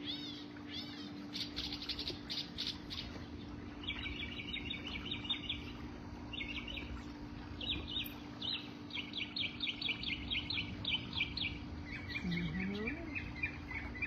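Northern mockingbird singing: a string of varied phrases, each a quick run of repeated notes, switching to a new phrase every second or two.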